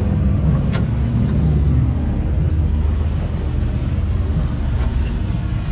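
Off-road rock-crawling rig's engine running steadily at low revs.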